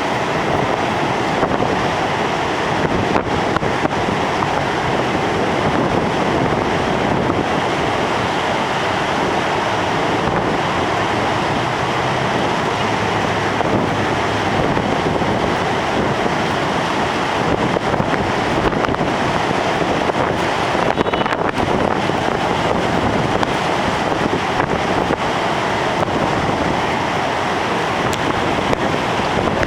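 Heavy storm surf breaking on the beach under strong wind, in a loud, steady rush, with wind buffeting the microphone. The rough surf is driven by Hurricane Irene passing offshore.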